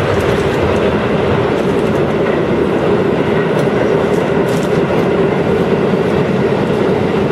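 Chiba New Town Railway 9000 series train running at speed, a steady rumble of wheels on rail heard from on board, with faint ticks mixed in.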